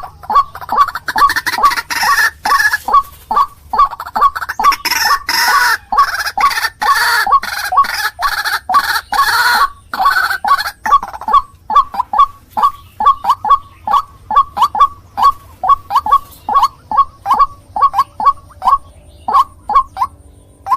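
White-breasted waterhen (ruak-ruak) calling: a steady run of short repeated notes, about two to three a second. For roughly the first half they are mixed with a denser, harsher jumble of overlapping calls.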